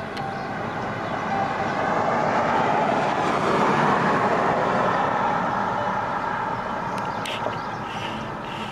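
A vehicle passing by, its noise building to loudest about four seconds in and then slowly fading.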